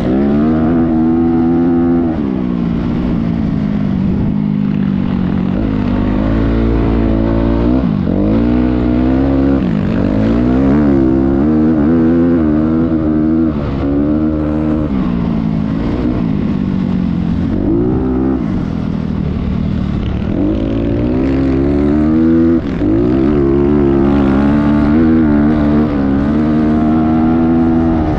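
Motocross dirt bike engine running hard while being ridden, its pitch climbing and dropping over and over as the throttle opens, closes and the gears change.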